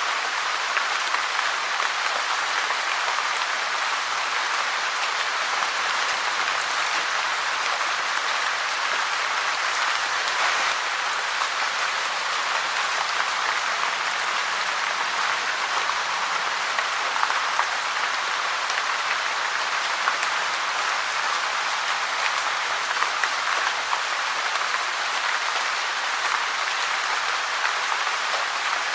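Steady rain falling, a dense, even patter of many drops with no change in intensity.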